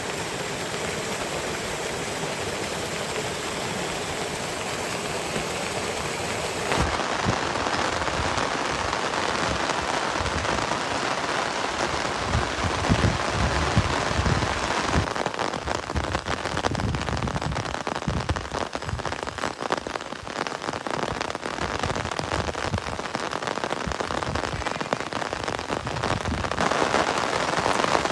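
Steady rain falling, dense with individual drops striking surfaces. The sound of the rain changes suddenly about seven seconds in, again midway and again near the end.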